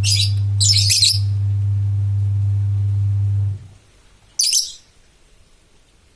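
Black-naped oriole (kepodang) giving three short, harsh, scratchy calls: two close together near the start and one more about four and a half seconds in. Under the first two runs a loud, steady low hum that stops about three and a half seconds in.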